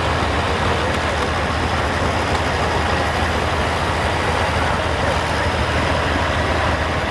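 Diesel engine of a pro stock semi truck running hard and steady under load during a truck pull.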